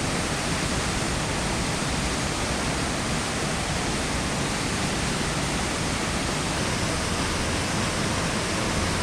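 High Force waterfall on the River Tees, a steady, unbroken rush of falling water.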